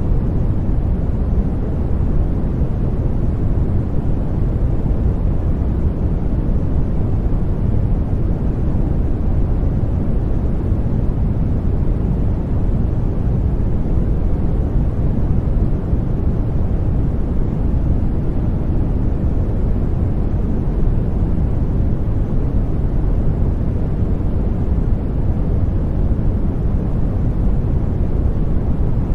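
Steady, unchanging sleep noise played for a baby, deep and even, with most of its weight low, like a dull rumble rather than a hiss.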